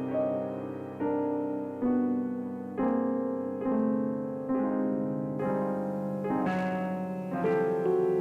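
Electronic keyboard playing an improvised passage in a piano sound: sustained chords with a new chord struck about once a second.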